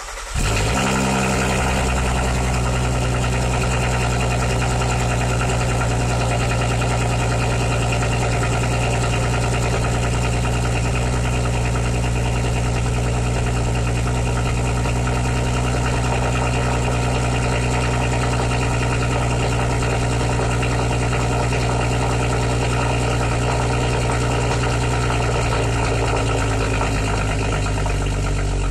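Volkswagen Mk V R32's 3.2-litre VR6 engine, its exhaust non-resonated, catching on a cold start at the very beginning and then running at a loud, steady fast idle.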